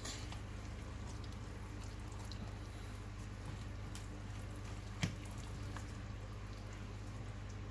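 Faint wet squishing of thick waffle batter being stirred in a bowl, over a steady low hum, with one sharp click about five seconds in.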